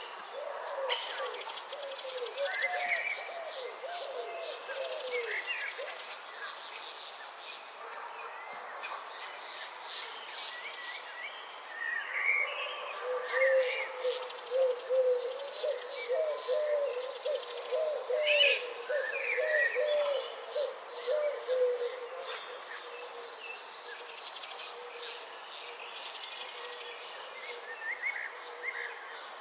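Nature ambience of insects and birds. A steady, high insect buzz starts about twelve seconds in and stops just before the end. Birds chirp throughout, and twice a run of quick, low calls sounds.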